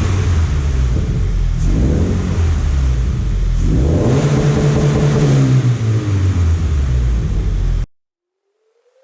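Subaru BRZ's flat-four engine being revved through its exhaust, rising and falling in pitch about three times. It cuts off abruptly about eight seconds in.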